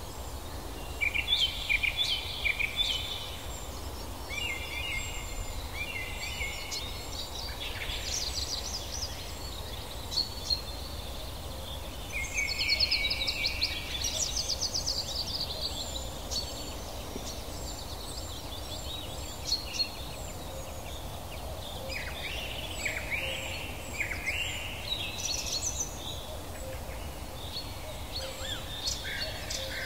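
Several songbirds singing: repeated quick trills and chirping phrases, with short thin high notes repeating, over a steady low background noise.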